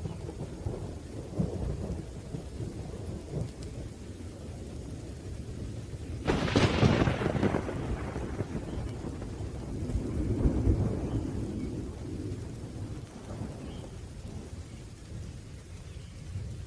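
Thunderstorm with steady rain and rolling thunder: a sharp, loud thunderclap about six seconds in that rumbles away over a few seconds, and another swell of thunder near the middle.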